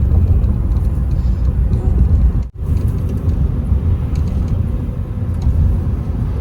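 Steady low road rumble of a car driving, heard from inside the cabin, with a brief drop-out about two and a half seconds in.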